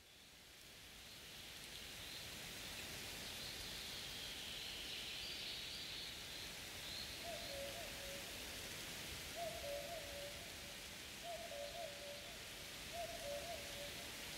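Steady rain-like hiss fading in over the first two seconds, with faint high chirps in the first half. In the second half a bird calls four times, about two seconds apart, each call two notes with the second lower.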